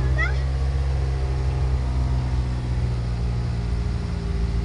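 Isuzu Panther engine and road noise heard from inside the cabin while driving: a steady low drone.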